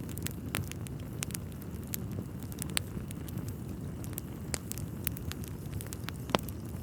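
Wood fire burning in a fireplace: a steady low rumble of flames with irregular crackles and pops, one louder pop near the end.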